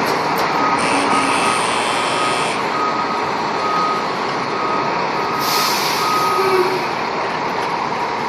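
Fire engine backing up: its reversing alarm beeps repeatedly over the running diesel engine, and about five and a half seconds in the air brakes give a loud hiss.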